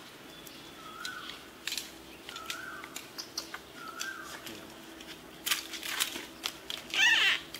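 A bird repeats a short rising whistle about every one and a half seconds, with scattered sharp clicks. Near the end comes a loud, brief, wavering squeal.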